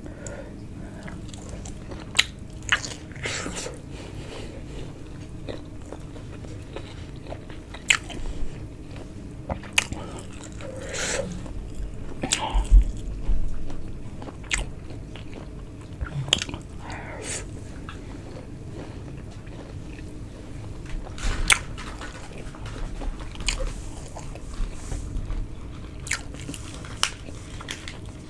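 A person biting and chewing food close to the microphone: irregular wet mouth smacks and clicks, with a louder run of chewing about halfway through.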